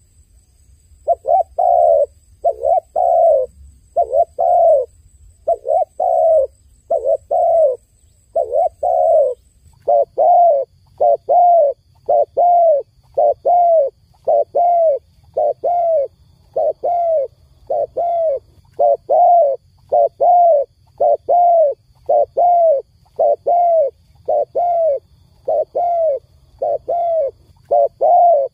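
A dove cooing over and over in short, falling coos, about two a second, in one unbroken run after a brief gap at the start.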